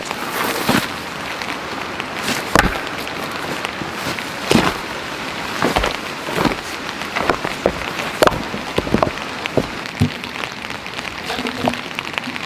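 Steady rain, with irregular sharp taps and knocks of heavy drops striking close by.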